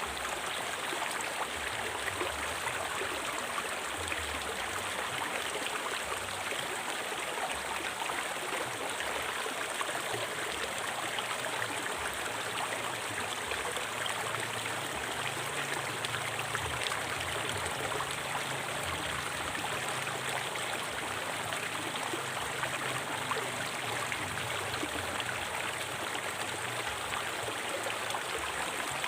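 A river stream flowing steadily over rocks, an even rushing and babbling of water.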